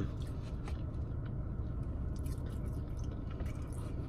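A person chewing food with faint wet mouth clicks, over a steady low hum.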